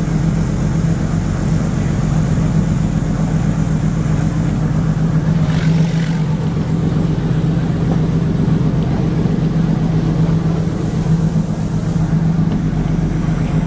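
Metre-gauge passenger train running, with the steady drone of its YDM-4 diesel locomotive pushing from the rear and the rumble of the coaches on the track.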